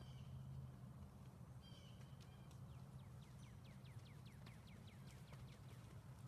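A songbird singing faintly over a low steady rumble: a few short high whistles, then about halfway through a quick series of falling notes.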